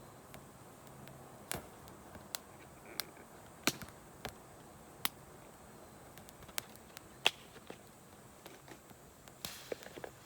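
Wood campfire crackling: irregular sharp pops, about one a second, over a soft hiss, with the loudest pop about seven seconds in and a quick cluster of pops near the end.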